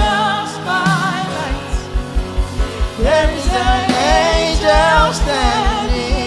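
Congregational worship song sung with a live band: voices singing with vibrato over held chords, and a steady low beat coming in about a second and a half in.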